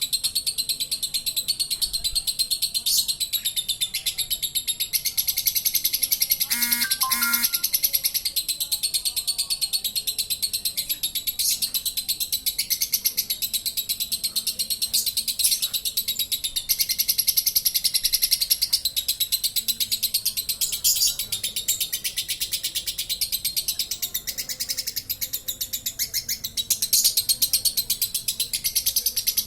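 Lovebird's long 'ngekek': a rapid, high-pitched chattering trill kept up without a break, the non-stop chatter prized in a 'konslet' contest lovebird.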